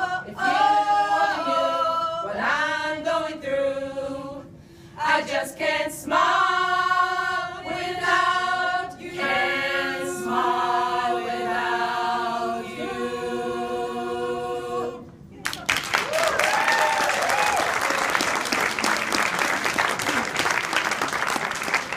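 A cappella choir singing, ending on a held chord about fifteen seconds in, followed by audience applause with a brief cheer.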